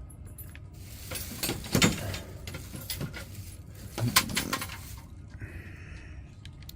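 Fishing tackle box being picked up and handled, its lures and metal gear rattling and clinking, with sharper knocks about two seconds in and again about four seconds in.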